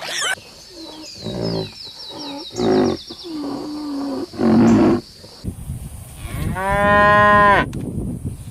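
Cattle mooing: several short low moos in the first half, then one long, loud moo that rises and falls in pitch near the end.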